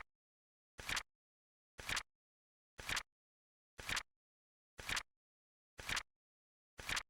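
Flip-clock timer sound effect: a short, crisp click-flap once a second, evenly spaced, with silence between.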